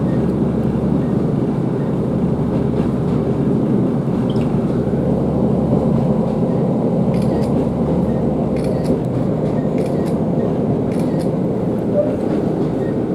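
Class 150 Sprinter diesel multiple unit under way, heard from on board: a steady drone of its underfloor diesel engines and the rumble of wheels on rail. A few light clicks and rattles come partway through.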